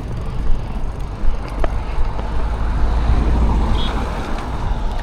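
Steady road and traffic noise with a heavy low rumble, as heard while riding along a road.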